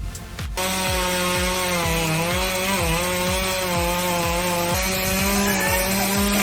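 Chainsaw cutting into wood, starting about half a second in and running steadily at high speed, its pitch sagging slightly as it bites under load.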